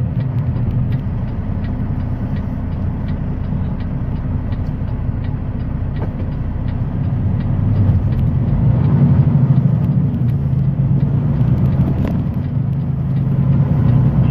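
Semi-truck engine running steadily under way, heard from inside the cab, growing louder about eight seconds in. A faint regular ticking goes on about twice a second.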